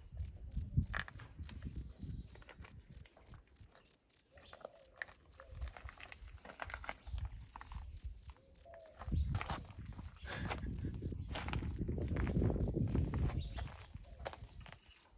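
An insect chirping in a fast, even run of high pulses that never stops, over close rustling and knocks of movement that grow louder about two-thirds of the way in.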